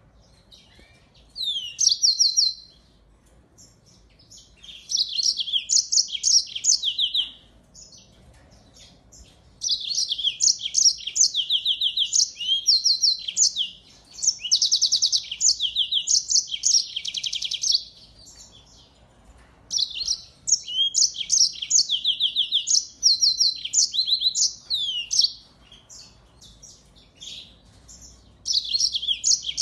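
Small finch singing: bouts of rapid, high trills and sharp chirps, each phrase lasting a second to a few seconds, separated by short pauses.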